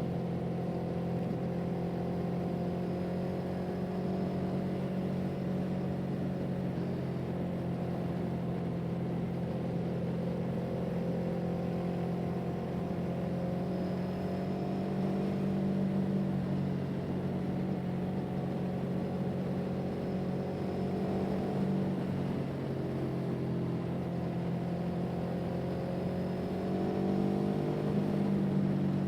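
A vehicle engine running steadily, its pitch rising and falling slightly now and then as the revs change.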